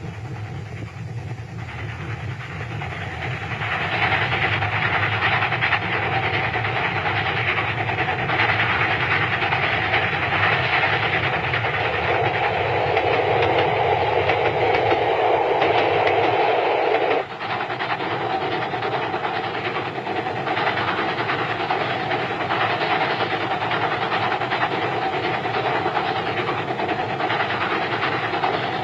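Steam train running at speed: a steady rush and rattle of the locomotive and its rail cars. The sound grows louder about four seconds in and changes abruptly about two-thirds of the way through.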